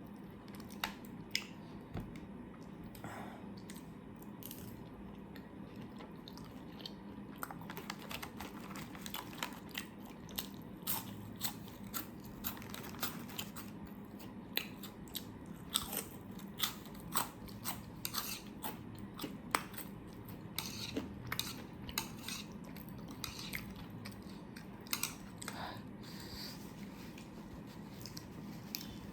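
A person chewing and biting food close to the microphone, with many short, sharp crunchy clicks and wet mouth sounds; the chewing is sparse at first and gets much busier after several seconds.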